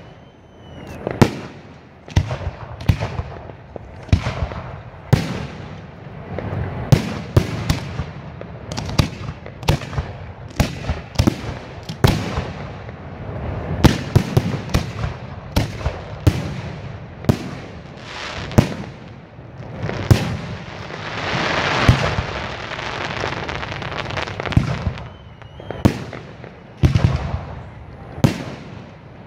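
Aerial firework shells bursting in quick succession, sharp booms often several a second. For a few seconds after about twenty seconds in, a denser hissing rush fills the gaps between the bangs.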